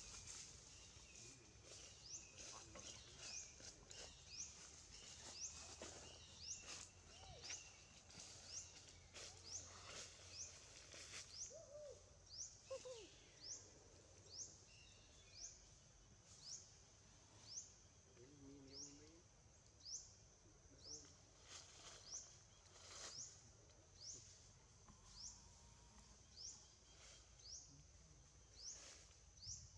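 A bird repeating a short, high, rising chirp, about three every two seconds, faint, with a few soft clicks.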